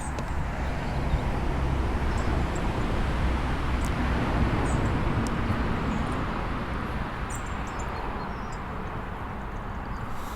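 A train passing, a rumbling noise that swells in the middle and slowly fades away, with a few faint bird chirps over it.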